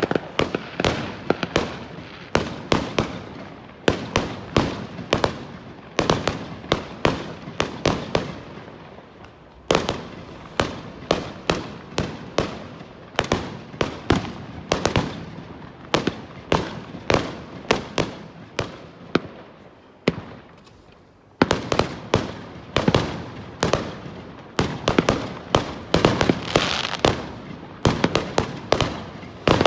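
Aerial fireworks bursting in a rapid barrage: sharp bangs about two or three a second, each with an echoing tail. The barrage comes in runs, with short lulls about a third and two thirds of the way through.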